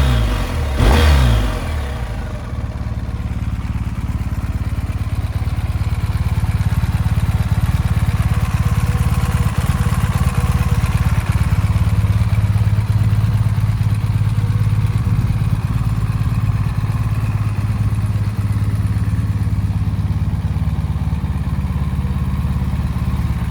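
BMW R 1250 GS's boxer-twin engine blipped once about a second in, then idling steadily.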